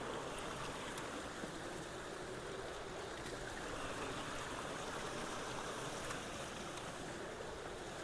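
Steady rush of runoff water flowing through a culvert after rain.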